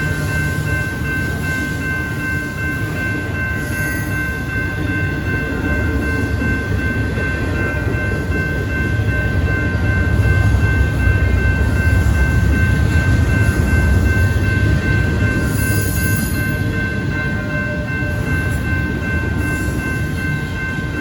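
Train passing close by: a heavy low rumble that swells to its loudest about halfway through, with several steady high-pitched tones holding throughout.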